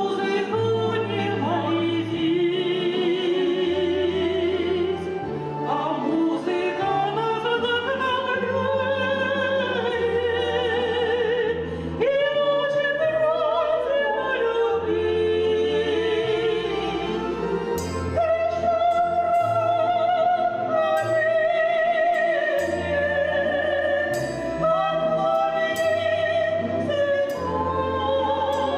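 A song sung with a wide vibrato over an accompaniment whose bass steps between notes about once a second.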